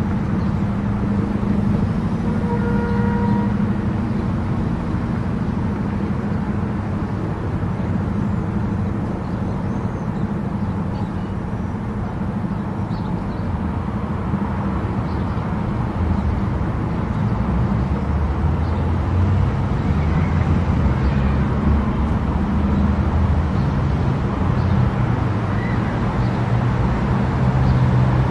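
Car travelling at speed on an expressway: steady tyre and road noise with a low engine hum that grows heavier in the second half. A brief pitched tone sounds about three seconds in.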